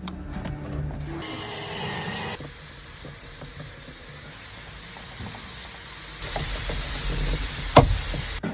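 Hand work on a truck with tools and metal parts: rattling and clicking, a brief hiss about a second in, and one sharp knock near the end.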